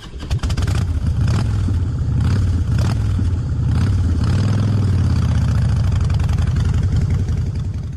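Motorcycle engine running steadily with a fast, even firing pulse.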